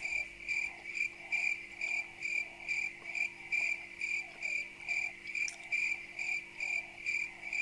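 Cricket chirping, an even train of short high chirps about two a second, starting suddenly and running unbroken over a faint steady low hum.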